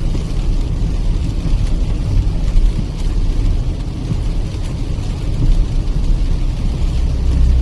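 Steady in-car driving noise from a Kia Seltos petrol manual on a wet highway: a low rumble from the tyres and road under a haze of rain and road hiss.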